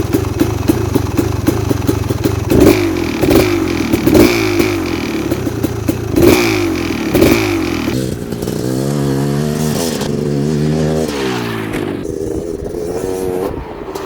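Two-stroke dirt bike being ridden around a motocross track, the engine revving up and falling back again and again as the rider opens and closes the throttle and shifts, with a few sharp clattering knocks in the first half. Around the middle the revs drop and waver up and down before picking up again.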